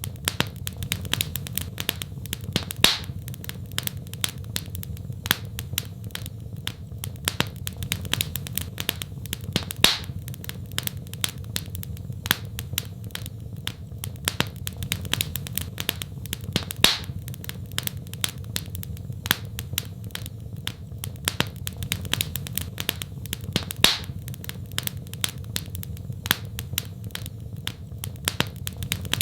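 Wood fire in a fireplace crackling: a dense, irregular run of small snaps and clicks over a steady low rumble, with a louder pop about every seven seconds.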